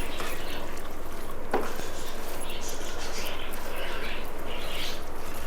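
Eating sounds at a rice-and-chicken-curry meal: chewing and small wet mouth noises, with one sharp click about a second and a half in.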